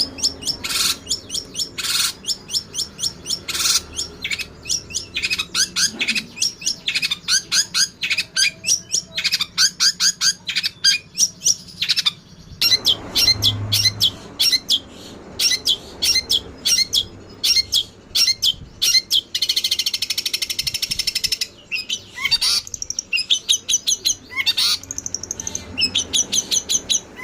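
Eurasian tree sparrows chirping fast and excitedly in a squabble, an almost unbroken string of sharp chirps several a second, with a harsher buzzy stretch about two-thirds of the way through.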